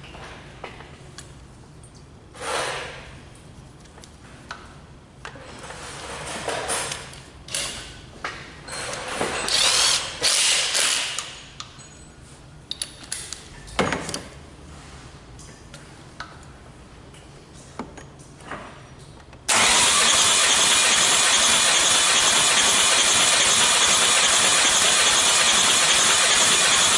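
Workshop clatter and knocks. Then, suddenly, about two-thirds of the way through, a loud steady mechanical din starts and holds: a D4CB 2.5-litre four-cylinder common-rail diesel, out of the car, turned over on its starter for a compression test.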